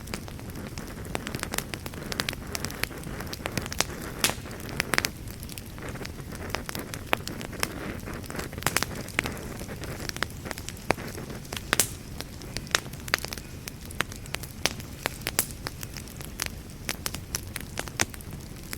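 Fire in a fireplace crackling: frequent irregular sharp pops and snaps over a low, steady rumble of flames.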